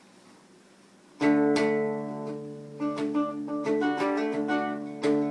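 About a second of near silence, then a guitar strikes a ringing chord and goes on with picked notes and strums in a steady rhythm: the instrumental introduction before the singing begins.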